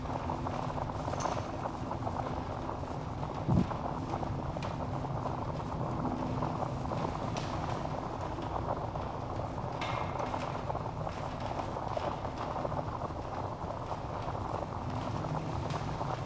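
Wood fire burning in a fireplace: a steady low rush of flames with scattered crackles and small pops from the logs. One louder low thump comes about three and a half seconds in.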